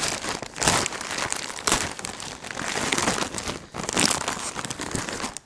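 A shipping package being torn open by hand, its plastic wrapping crinkling and rustling in irregular bursts.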